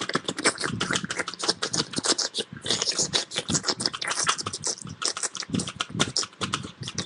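Rapid, irregular clicking of keys being tapped, many presses a second, as a sum is keyed in to work out the tax.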